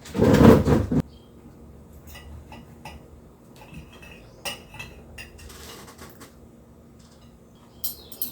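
Kitchen clatter of dishes and cutlery: a loud second-long rattle at the start, then scattered clinks and taps, with a sharper pair of clinks near the end.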